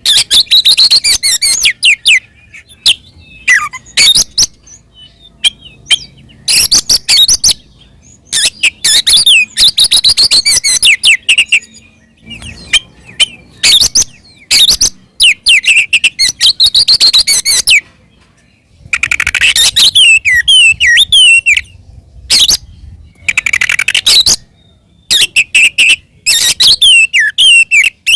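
Oriental magpie-robin singing loud, fast bursts of high whistled and chattering phrases, with short pauses between them. This is its aggressive 'fighting' song, played to provoke other magpie-robins into answering.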